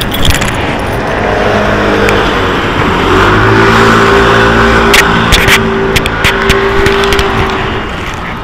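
Hino HS8JRVL city bus engine pulling away: the engine note climbs about three seconds in, holds steady under acceleration, then eases off near the end. A few sharp clicks or rattles sound around the middle.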